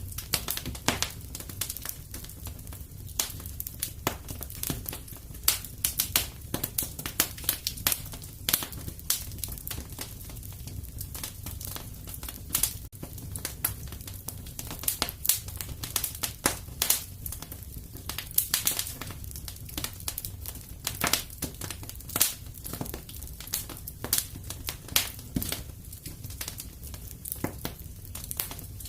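Fireplace fire crackling: a dense, irregular run of sharp pops and snaps over a low, steady rumble.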